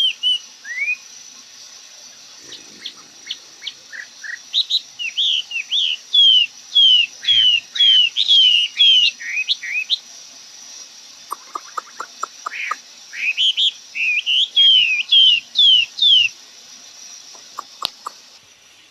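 A songbird singing runs of clear, downward-sliding whistled notes, about two a second. In a gap between the runs comes a quick series of dry ticks.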